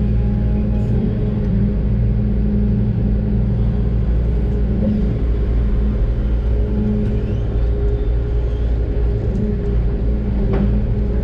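Doosan DX600 excavator's diesel engine running steadily under working load. A brief knock sounds near the end.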